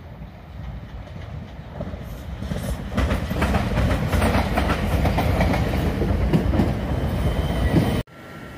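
Class 455 electric multiple unit approaching and running past close by, its wheels clattering over the rail joints; it grows louder over the first three seconds, then the sound cuts off abruptly near the end.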